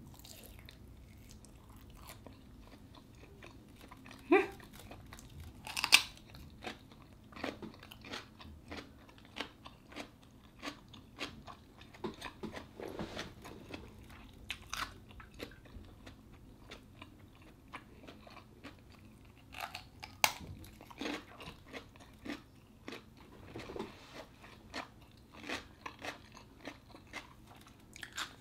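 Eating sounds: biting and chewing grilled sausage and crisp English cucumber, a continual run of short crunches and mouth clicks with a few louder bites.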